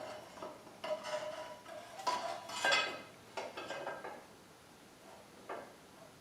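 Metal parts and hardware of a portable bandsaw table clinking and clattering as they are handled during assembly: a handful of separate knocks with short ringing tones, the quietest near the end.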